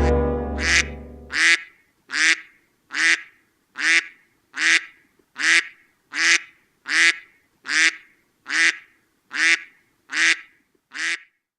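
A short, nasal, quack-like call repeated thirteen times at an even pace, about one every 0.8 seconds, each call alike. A low, sustained horn-like tone fades out and stops about a second and a half in.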